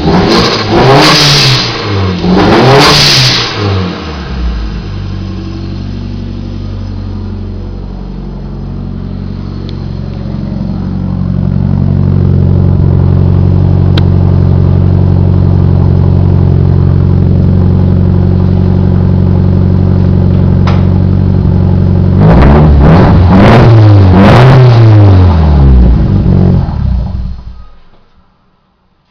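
Turbocharged Nissan EXA engine through a 3-inch exhaust, blipped twice, then idling. It settles into a louder steady run and is revved several more times before the sound cuts off near the end.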